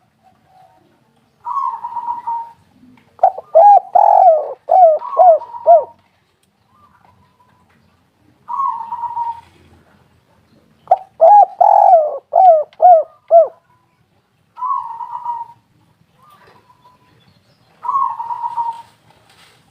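Spotted dove cooing: twice a quick series of about five arched, hollow coos, with single rougher, burry coos in the gaps between.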